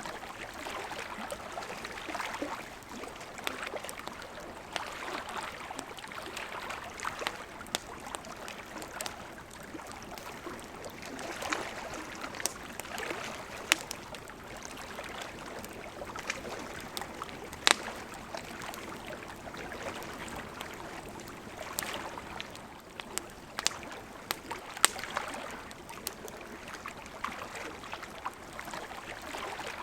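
Campfire crackling, with scattered sharp pops, over small lake waves lapping against the shore in gentle swells.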